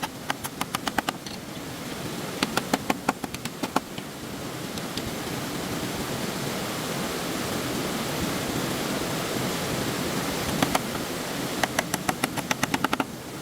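Stream water rushing steadily, with three short bursts of rapid sharp clicks, about ten a second: one at the start, one a few seconds in and one near the end.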